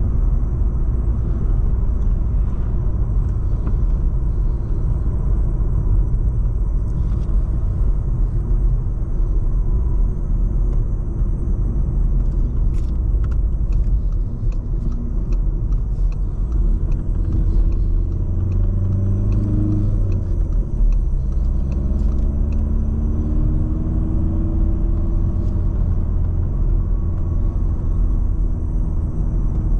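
Volkswagen Golf 7's 1.6 TDI four-cylinder turbodiesel under way, a steady low drone with road rumble. Past the middle the engine note climbs, breaks off and climbs again, as in acceleration through a gear change.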